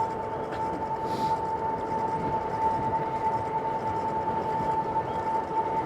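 Electric cargo bike's motor whining at a steady pitch while riding, over road and wind rumble.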